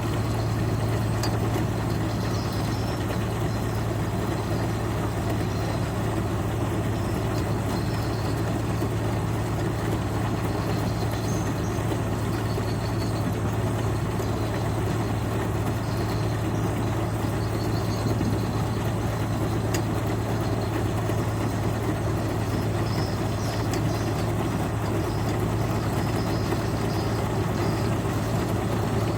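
Engine of a paddy-unloading machine running steadily, a constant low hum under an even mechanical noise.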